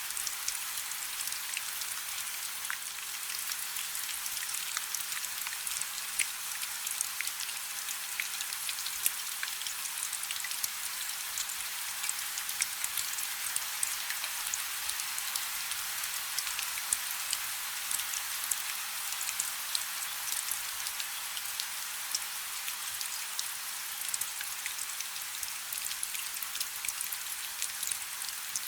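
Light rain falling steadily: a soft, even hiss with many small, crisp drop ticks scattered through it.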